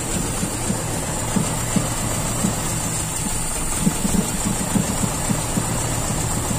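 Toyota Kijang Super's carburetted four-cylinder engine idling unevenly, its beat broken by irregular pulses. The mechanic puts the rough idle down to a too-lean idle mixture from false air.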